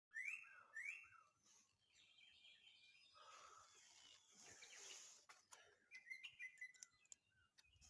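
Faint birds chirping: two quick rising calls at the start, then scattered chirps, with a few light clicks in the later part.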